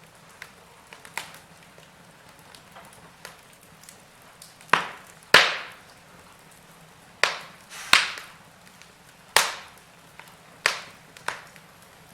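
Wood fire in a fireplace crackling, with a soft hiss and small crackles, then about seven loud, sharp pops of burning logs from about halfway in.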